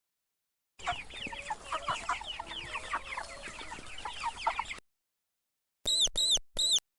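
Domestic chickens calling: a dense flock chorus of many short, falling, overlapping calls for about four seconds, then after a brief pause three loud, high, separate calls near the end.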